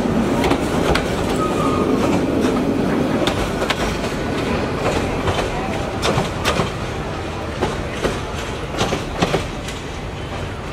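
Passenger train coaches rolling past as the train pulls out, their wheels clacking over the rail joints in irregular knocks, the sound easing slightly as the last coach moves away.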